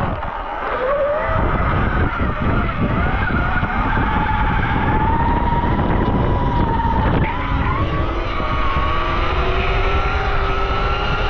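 Motorbike engine revving up about a second in, then held at high revs with the pitch wandering up and down as the rider opens the throttle for wheelies.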